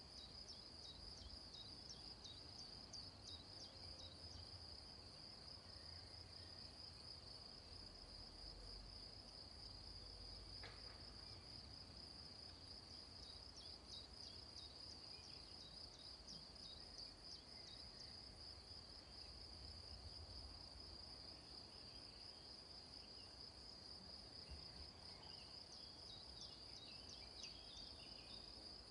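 Faint, steady, high-pitched chorus of insects such as crickets, with clusters of short high chirps coming and going over it.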